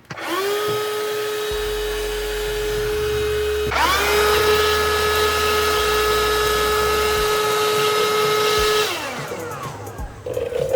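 Cordless vacuum cleaner's electric motor switched on, spinning up to a steady high whine. About four seconds in it cuts out briefly and spins straight back up, then near the end it is switched off and winds down with a falling pitch.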